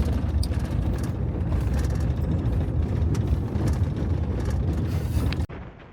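Road vehicle driving: a steady low rumble of engine and road noise that cuts off abruptly about five and a half seconds in.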